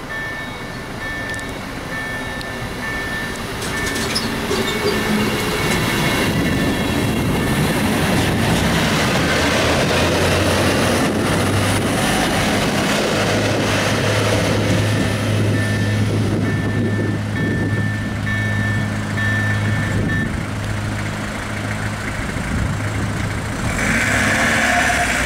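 An ex-Danish MRD diesel railcar set runs over the level crossing, its engine droning deeply and its wheels clattering, loudest about ten to twenty seconds in. The crossing's electronic warning signal sounds a steady high tone until about twenty seconds in, then stops. Near the end a road vehicle moves off across the tracks.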